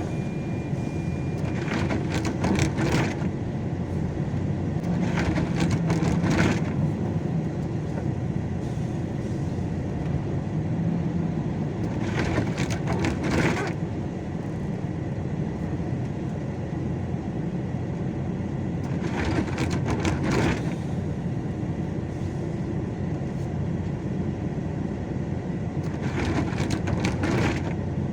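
A vehicle engine running steadily with a low rumble, with a surge of rushing noise five times, each lasting a second or two.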